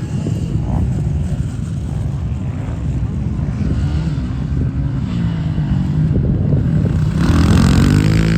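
Dirt bike engines revving on a motocross track, their pitch rising and falling as riders work the throttle. A bike gets louder and climbs in pitch about seven seconds in.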